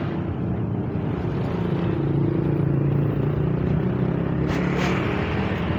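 Heavy truck's diesel engine running steadily, its pitch rising a little and easing back, with a short hiss near the end.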